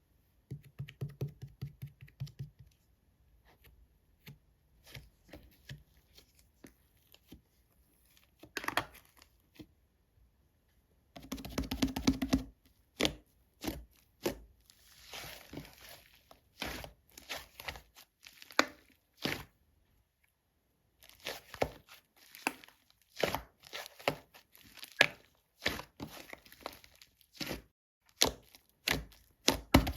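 Rainbow slime being handled: bursts of sticky pops, clicks and crackles, with short quiet pauses between handfuls.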